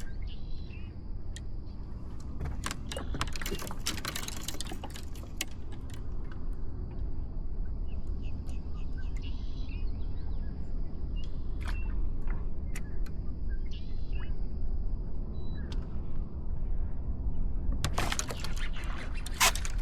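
Steady wind rumble on the microphone with scattered clicks and rattles of fishing tackle while a hooked bass is fought and reeled toward a kayak. Two louder rushing bursts come about three seconds in and again near the end.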